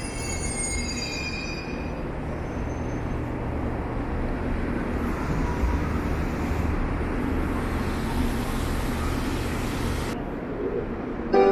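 Limited express train pulling out along the platform: a steady rumble of wheels on rail with a low hum, and a high wheel squeal that fades out about two seconds in.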